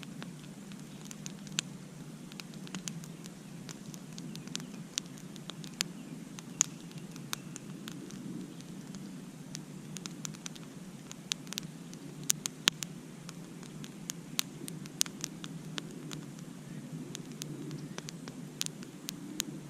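Campfire crackling: irregular sharp pops and snaps of burning wood, a few louder ones about two-thirds of the way in, over a steady low background.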